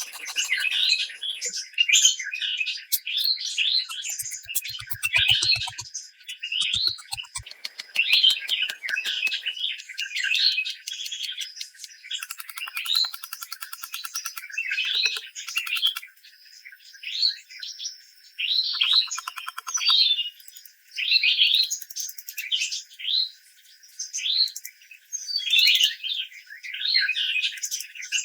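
A songbird singing short chirping phrases over and over, about one a second, with runs of faint clicks a few seconds in and again around the middle.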